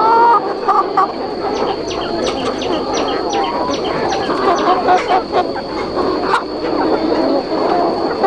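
A flock of chickens clucking and calling, many short overlapping calls at once, with scattered sharp clicks among them.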